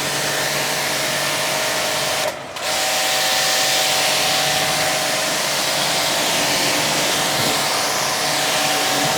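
A 1500-watt, 135-bar electric high-pressure car washer running, its water jet rinsing the foam off the vehicle: a steady spray hiss over the motor's whine. It cuts out briefly about two and a half seconds in, then resumes.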